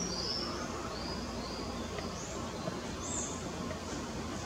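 Small birds chirping: a quick run of short, high, arched chirps in the first two seconds, then a few more spaced out, over steady background noise.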